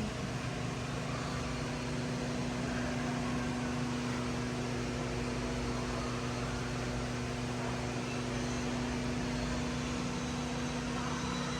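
Steady mechanical hum: a low droning tone over an even hiss, unchanging throughout.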